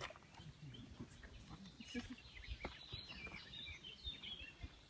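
Faint bird chirping in short squiggly calls, busiest in the second half, with scattered light clicks and knocks.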